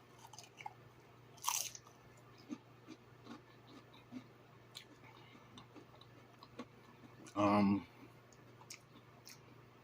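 A person chewing and biting food close to the microphone: small wet mouth clicks and crunches over a low steady hum, with a louder crunch about a second and a half in. About seven and a half seconds in comes a short voiced sound from the eater's throat, the loudest sound here.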